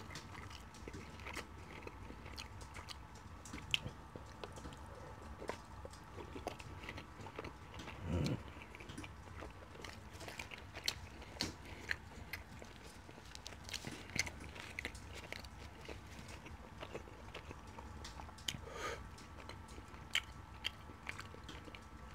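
Close-miked chewing, biting and lip smacks of a man eating chicken curry and flatbread with his fingers, a steady scatter of small wet clicks, with one louder, lower sound about eight seconds in.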